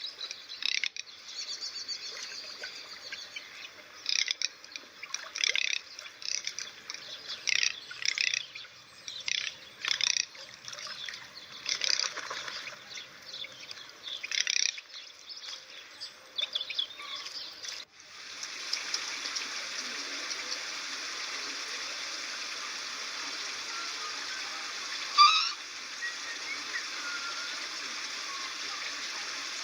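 Short, irregular bird chirps mixed with small splashes. About two-thirds of the way in this changes abruptly to a steady rush of running water, with one sharp splash partway through.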